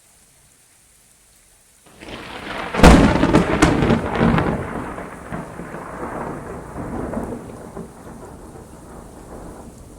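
Thunder during a rainstorm: a rumble starts about two seconds in and breaks into a sharp crack and a few quick cracks. It then rolls on and slowly fades, over faint steady rain.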